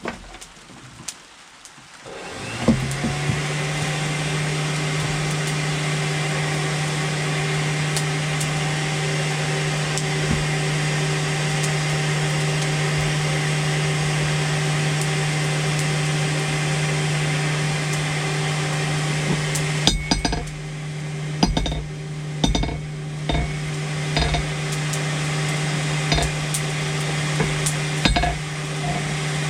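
A motor-driven machine starts about two seconds in and runs at a steady low hum. In the last third, irregular metallic clinks and knocks sound over it.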